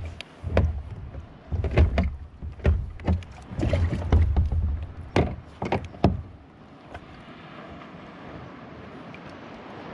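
Irregular knocks and thuds on a plastic pedal kayak as the paddler moves about and handles gear on board. They stop about six seconds in, leaving a steady hiss of wind and water.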